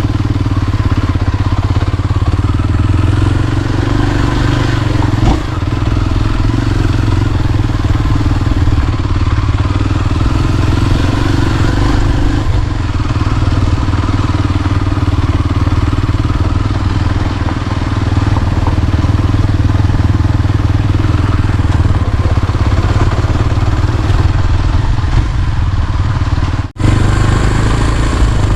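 Motorcycle running steadily while under way, with continuous engine and road rumble; it cuts out for an instant about 27 seconds in.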